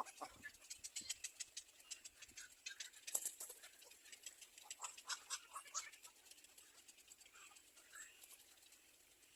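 Nestling birds in a nest: faint, rapid ticking and rustling with short, high cheeps now and then, busiest in the first six seconds and thinning out toward the end.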